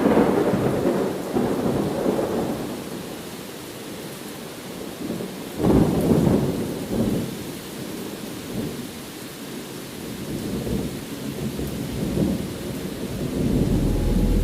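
Steady rainfall with rolling thunder: a thunderclap rumbles away at the start, and another breaks suddenly about six seconds in and rolls on for a couple of seconds, with lighter rumbles later.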